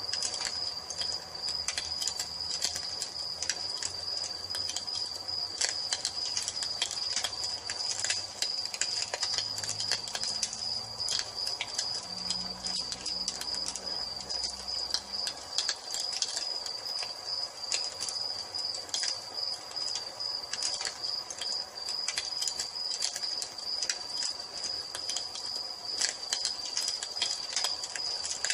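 Crickets chirping in a continuous, fast-pulsing trill, with a wood fire crackling over it in many irregular small pops.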